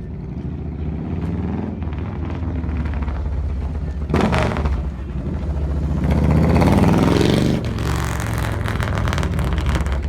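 Car engine running with a steady low rumble. About four seconds in there is a brief loud burst of noise, and from about six seconds in the engine note rises and is loudest for a second or so before settling back.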